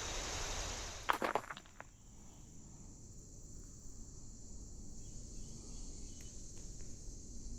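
Steady high-pitched chorus of crickets and other insects, with a few footsteps about a second in.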